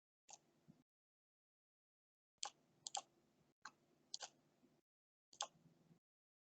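Faint sharp clicks, singly and in quick pairs, about eight in all, made while drawing a diagram.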